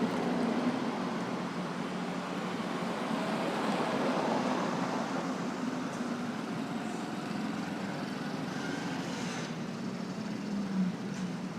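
Busy road traffic: a steady mix of motorcycle, car and truck engines running and tyres on the road, with a brief louder moment near the end.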